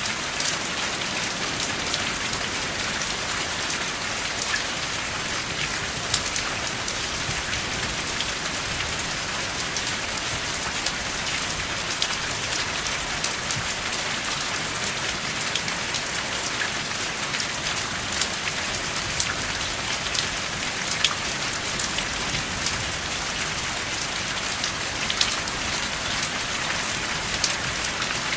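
Steady rain falling, an even hiss with many sharp drop ticks scattered through it, and no thunder.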